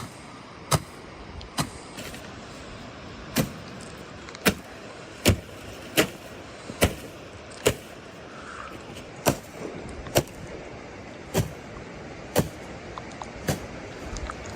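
Wood fire crackling, with sharp pops about once a second, over the steady hiss of heavy rain.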